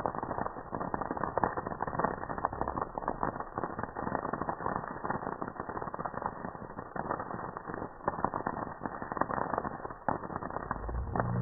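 Campfire crackling: a dense, irregular stream of wood pops and snaps. Near the end, a low pitched tone starts up.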